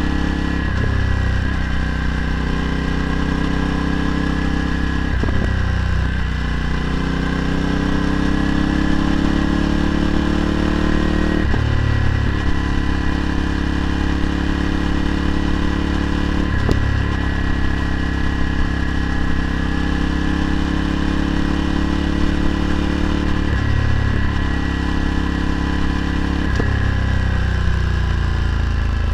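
Ducati Multistrada 1260's V-twin through a Termignoni exhaust, running under way. Its pitch climbs and falls with the throttle, with sudden breaks about five or six times as the gears change, and it eases off near the end.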